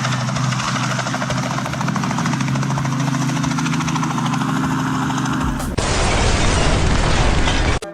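Helicopter rotor and engine running, a dense rapid beating over a steady low drone. A little under six seconds in, it cuts abruptly to a loud rushing noise.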